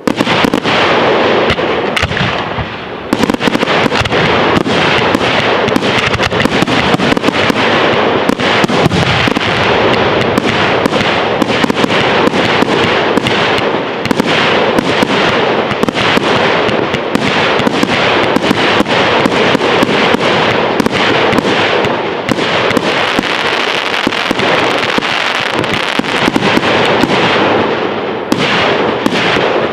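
A fireworks display in full barrage: a dense, almost continuous volley of bangs and crackling shell bursts, easing off briefly near the start and again near the end.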